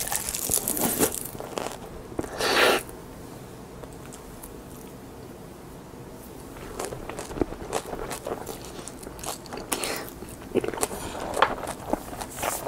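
Crisp roasted seaweed sheets (plain gim) being bitten and chewed close to the microphone: sharp crackling crunches, one louder crunch about two and a half seconds in, a quieter pause, then a steady run of crackles from about seven seconds on.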